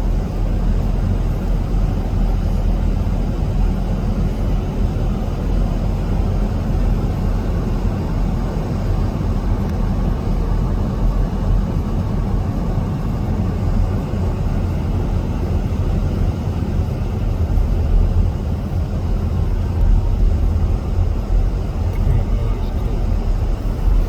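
Strong wind buffeting the microphone: a steady low rumble with a few stronger gusts.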